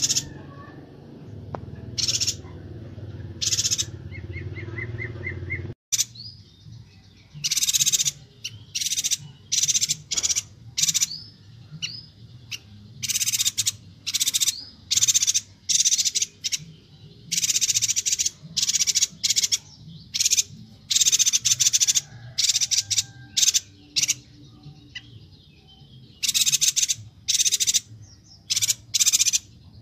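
Chestnut-crested yuhina (yuhina kalimantan) calling: many short, high, chattering bursts in quick succession, repeated over and over. A low background hum stops suddenly about six seconds in.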